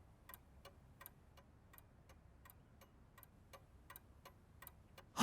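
A clock ticking faintly and evenly, about three ticks a second.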